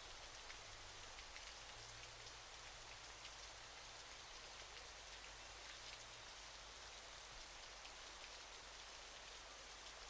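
Falling water: a faint, steady hiss of splashing water, peppered with many small drop-like ticks.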